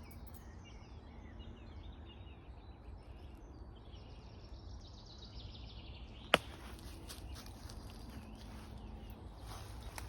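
Faint woodland birdsong over a steady low rumble of wind on the microphone, with one sharp click about six seconds in.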